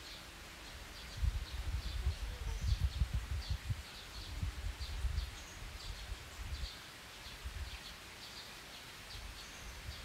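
Outdoor ambience: a bird chirping in short, high notes, about two a second, over irregular low rumbling gusts like wind on the microphone. The rumbling is strongest in the first half.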